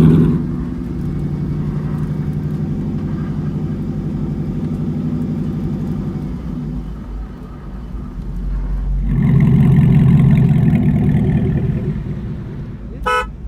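Devel Sixteen supercar's engine running as the car drives, easing off in the middle and then swelling louder for a couple of seconds. Near the end comes one short beep of its horn.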